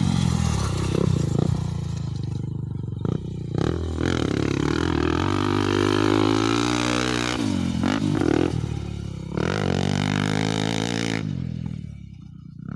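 Motocross bike engine revving hard and backing off again and again as the throttle opens and closes, with a short rattle or clatter at the throttle dips. It fades away near the end.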